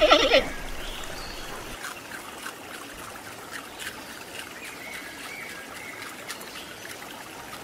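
A brief bleating call right at the start, then a steady soft hiss like trickling water, with faint high squeaks over it.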